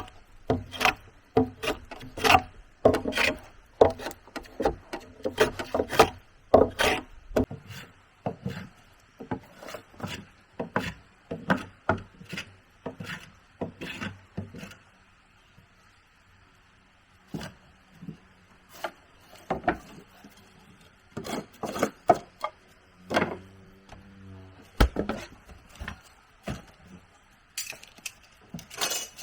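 Wood being worked by hand with a tool: a run of short rasping, scraping strokes, quick and dense at first, then sparser after a brief pause, with a single low knock late on.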